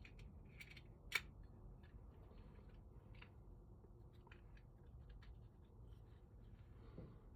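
Faint small clicks and taps of metal lock parts being handled and fitted together, with one sharper click about a second in.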